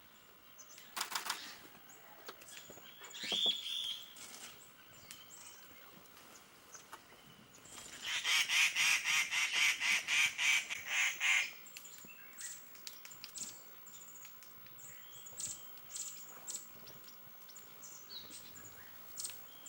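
A bird gives a loud, fast chattering run of harsh repeated notes lasting about three and a half seconds. It is preceded by a sharp call and a short whistled note, and followed by scattered short chirps from other birds.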